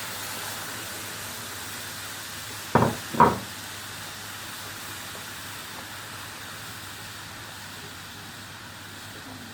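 Milk sizzling in a hot non-stick pan over onions and flour cooked in butter: a steady hiss that slowly dies down. Two sharp knocks close together about three seconds in.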